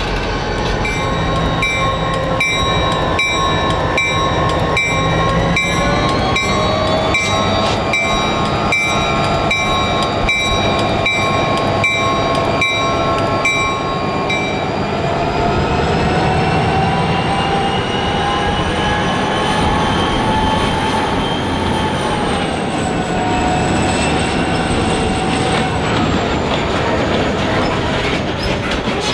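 EMD GP40-2 locomotive switching freight cars in a yard. Wheels click over rail joints at a steady pace for about the first half, under whining tones that rise slightly, then dip later on.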